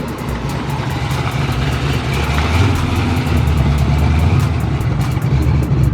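Car engine running steadily with a low rumble, under quick regular clicks.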